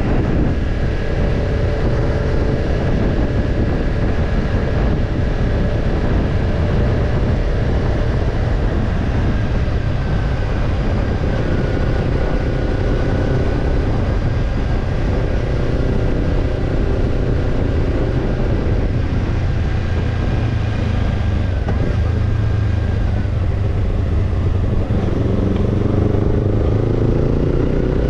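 Kawasaki Ninja 250's parallel-twin engine through a BEET NASSERT Evolution Type II titanium slip-on muffler, running under way at a fairly steady pitch, with a deep low rumble underneath. Near the end the engine note rises as the bike accelerates.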